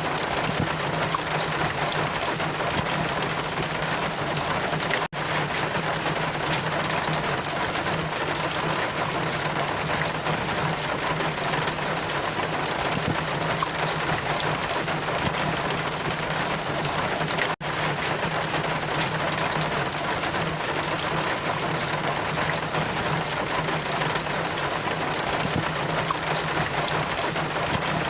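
Steady, continuous rain, an even hiss with no distinct drops standing out. It cuts out for an instant twice, about five seconds in and again past the middle.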